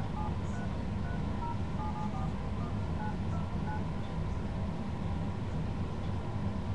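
Phone keypad touch tones: about a dozen short beeps of changing pitch as a phone number is dialed, stopping a little before four seconds in, over a steady low rumble.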